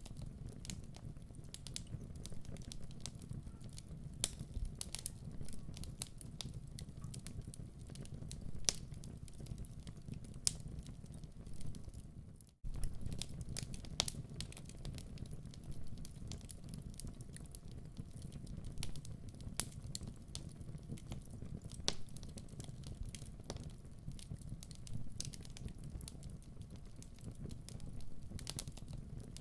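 Fireplace wood fire burning: a steady low rumble of flames with frequent irregular sharp crackles and pops. The sound dips and cuts out for a moment about twelve seconds in, then resumes.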